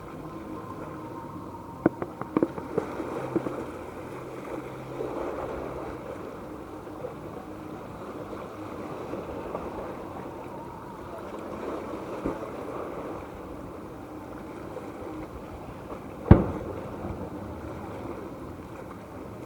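Fireworks bursting over a steady background of crowd and wind noise: a quick cluster of sharp cracks about two seconds in, and one loud single bang with a short echoing tail near the end.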